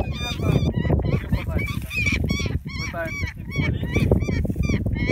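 A bird calling over and over in short harsh notes, about two or three a second, with wind rumbling on the microphone.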